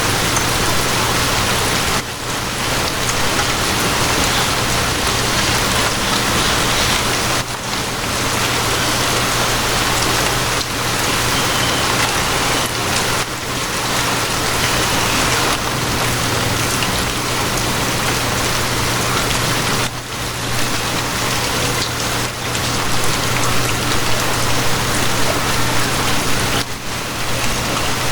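Steady, dense rainfall, with a constant low hum underneath and a few brief dips in level.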